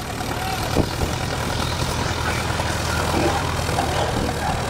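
Turbocharged 1950 Farmall M tractor's engine running steadily under load as it pulls a tractor-pull sled, getting a little louder after about a second.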